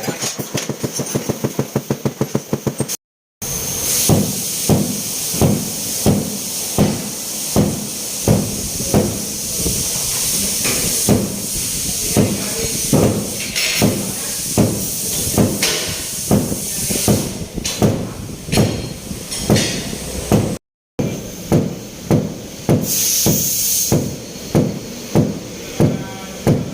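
Paintless-dent-repair tapping on a Honda Civic's roof panel: a quick run of light taps, about eight a second, then, after a break, steady single knocks about one and a half a second, typical of tapping down high spots and a crease. A steady hiss runs underneath.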